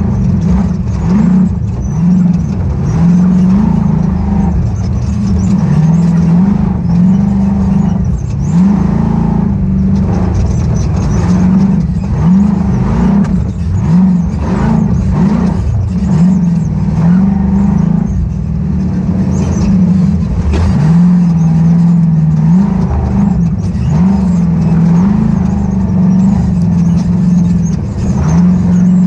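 Ultra4 off-road race car's engine running hard, its pitch repeatedly climbing and dropping back every second or two as the throttle is worked, with scattered knocks.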